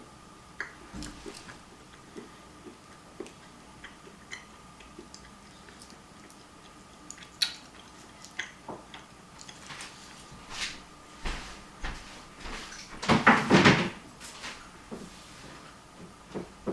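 Scattered small clicks and taps of objects being handled, with a louder rustle lasting about a second near the end.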